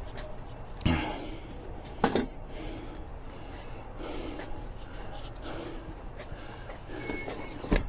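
A person breathing hard and out of breath, with gasping breaths, and three sharp knocks: one about a second in, one about two seconds in, and one near the end.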